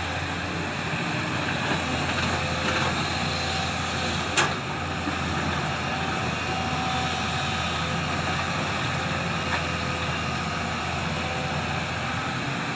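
Excavator's diesel engine running steadily, with a single sharp knock about four seconds in and a few faint ticks.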